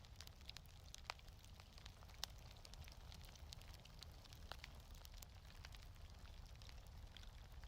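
Wood fire in a fireplace crackling softly: scattered sharp pops and ticks at irregular intervals over a low, steady rumble.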